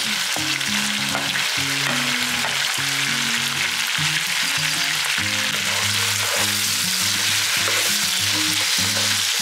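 Chicken and freshly added diced tomatoes frying in hot oil in a pan, a steady sizzle, with background music of held low notes underneath.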